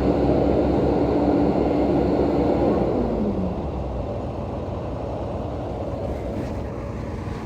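Diesel engine of a heavy earthmoving machine running hard, then dropping in pitch and easing off about three seconds in, settling to a quieter, steady run.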